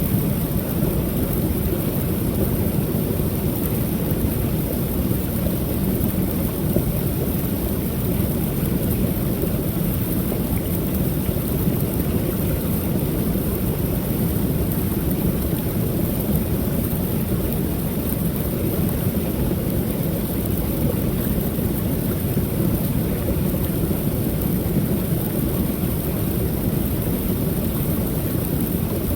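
Waterfall on a creek: water pouring over a ledge in a steady, full rush, heaviest in the low range.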